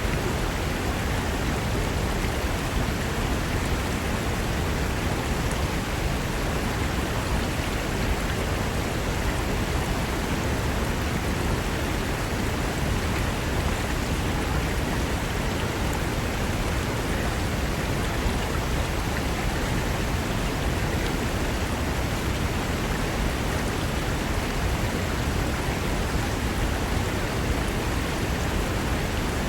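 Fast mountain river rushing over rocks: a steady, even wash of whitewater.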